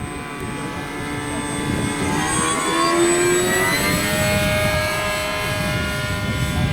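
Electric motor and propeller of an RC canard model airplane whining in flight. The sound grows louder about halfway through and its pitch shifts as the model passes.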